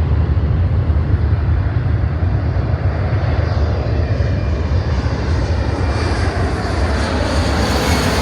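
Jet airliner passing low overhead as it comes in to land, its engines a loud, steady rumble, with a high whine building near the end.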